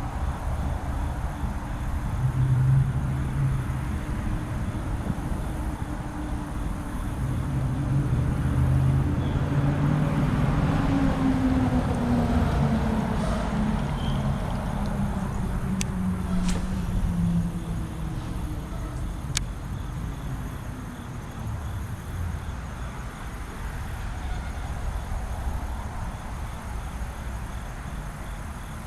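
Road traffic: a steady low rumble, with one vehicle's engine hum sliding down in pitch as it passes near the middle, and a few sharp clicks later on.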